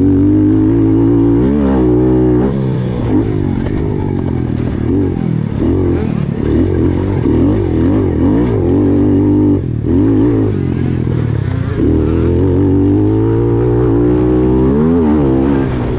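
Pit bike engines revving hard, the pitch climbing and falling again and again with throttle and gear changes, with a brief drop about ten seconds in.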